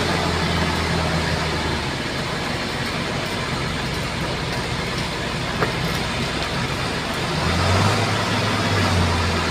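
Bulldozer's diesel engine running under work. Its low engine note weakens about two seconds in and comes back stronger near the end, with a single sharp click about halfway through.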